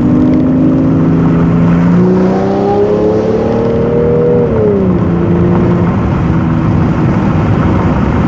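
Straight-piped V12 of a 2001 Mercedes-Benz S600 running loud and steady. About two seconds in the revs climb gently and hold, then fall back to idle about five seconds in.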